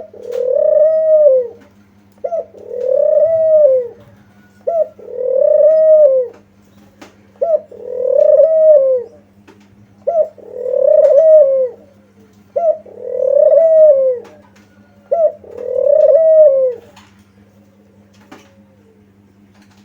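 Kuter dove cooing: a short note followed by a longer coo that rises and falls, repeated about every two and a half seconds, eight times, stopping a few seconds before the end.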